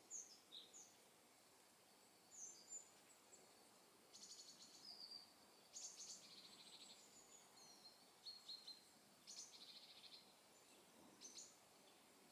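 Songbirds chirping faintly: scattered short high calls, some sliding downward, and a few quick trills.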